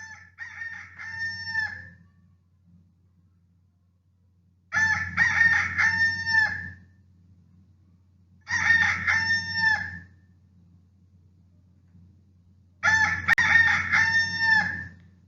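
Rooster crowing four times, each crow one and a half to two seconds long with a few seconds' pause between; the first crow is fainter than the rest.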